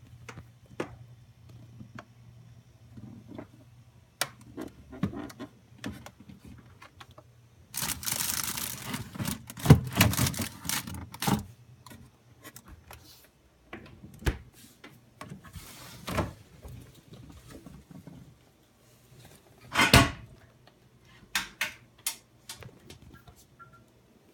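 Household containers and items being handled and moved: scattered clicks and knocks, rustling and scraping from about eight to eleven seconds in, and a sharp clatter around twenty seconds.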